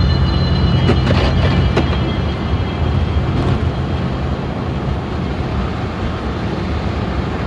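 Steady road and engine noise inside a moving car, with music faint in the background.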